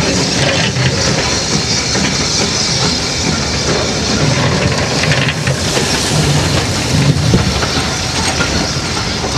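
Passenger coaches of a steam-hauled train rolling close past at speed: a steady running noise from the wheels on the rails, with scattered clicks as the wheels pass over rail joints.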